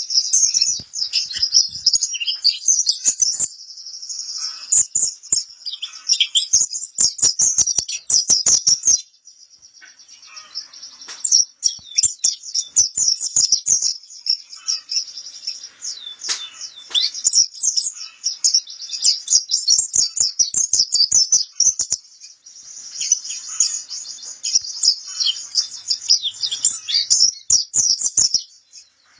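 Pleci kapur (white-eye) singing: a fast, high, twittering chatter in long runs, broken by a short pause about nine seconds in.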